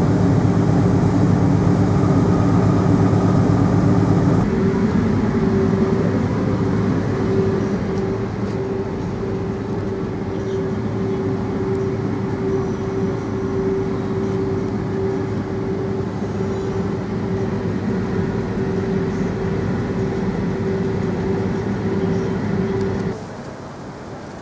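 Motor ship's engine running with a steady low drone and a steady humming tone. The sound changes abruptly about four seconds in and drops off sharply near the end.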